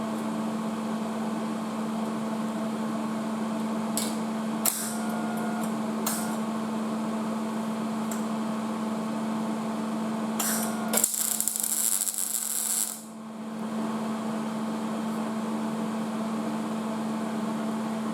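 MIG welder tacking sheet metal: a few short crackling tacks about four to six seconds in, then a longer crackling weld of about two seconds a little past the middle, over a steady electrical hum.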